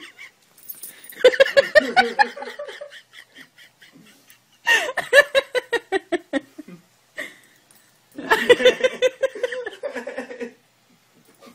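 Human laughter in three long bouts of rapid, pulsed laughing, with short quiet gaps between them.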